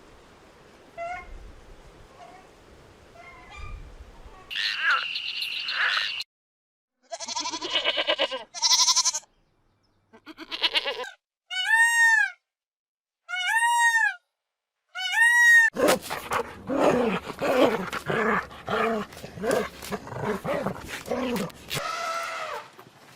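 A run of different animal calls, one short clip after another with abrupt cuts and brief silences between them: first faint repeated calls, then loud pitched cries, then three arching calls in a row, and finally a fast, dense stretch of calls.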